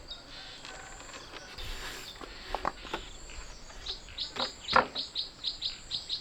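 Forest ambience: insects keep up a steady high-pitched buzz while a bird gives a rapid run of short chirps, about four a second, starting about four seconds in. A few sharp knocks come in the middle, the loudest about five seconds in.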